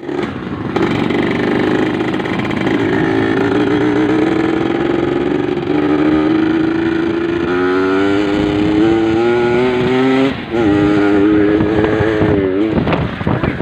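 Yamaha RX-King's single-cylinder two-stroke engine pulling under way, its note climbing slowly for about ten seconds. It dips briefly, picks up again, then wavers and falls away near the end.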